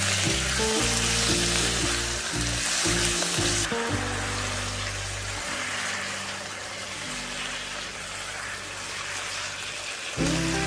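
Chicken livers sizzling in hot oil in a wok as they sauté, a steady hiss that softens a little after about four seconds.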